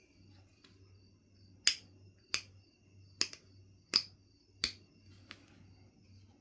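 Knife River Flint being knapped: five sharp clicks of flakes snapping off the stone, about two-thirds of a second apart, then a fainter sixth click.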